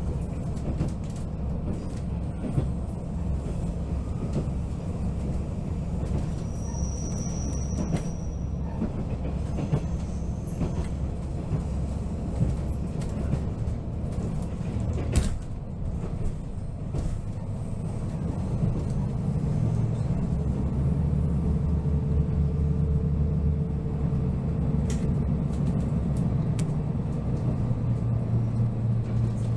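Diesel railcar running along the line, heard from inside the passenger car: a steady low rumble of engine and wheels, with a few sharp clicks. About two-thirds of the way through, the engine note grows louder.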